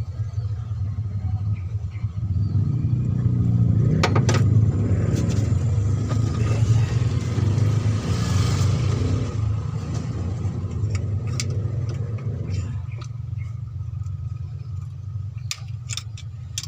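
A vehicle's rumble swells over a steady low hum, peaks and fades away over about ten seconds, like a vehicle passing close by. A few sharp metallic clicks sound through it.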